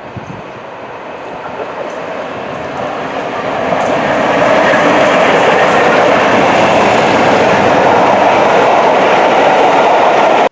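Train running on rails, growing louder over the first few seconds, then holding loud until it cuts off suddenly at the end.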